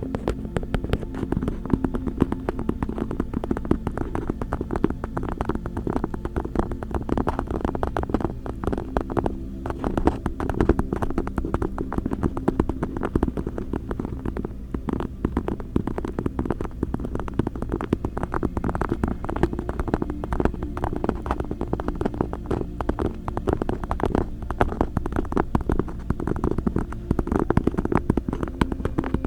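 Close-up purring: a steady low rumble with a dense, fine crackle of rapid pulses, continuous throughout.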